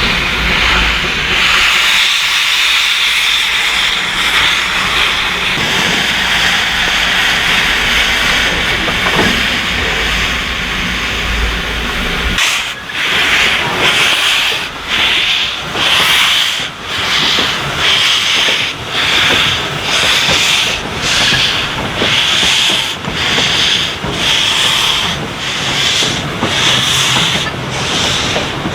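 Narrow-gauge steam locomotive blowing off a steady loud hiss of steam. About halfway through, slow, regular exhaust chuffs begin at a little over one a second as it works steam.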